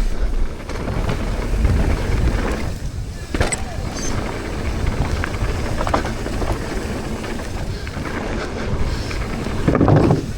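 Wind buffeting a helmet-mounted camera's microphone and knobby tyres rumbling over a dirt trail as a mountain bike rides fast down a jump line, with a few thumps from landings and rough ground, the strongest near the end.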